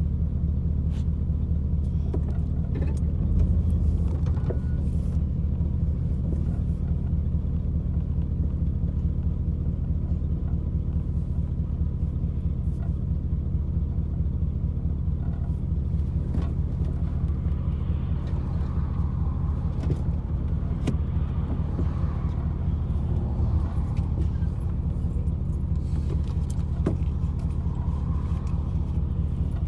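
Vehicle engine idling steadily, heard from inside the cab, swelling briefly about three and a half seconds in, with scattered light clicks.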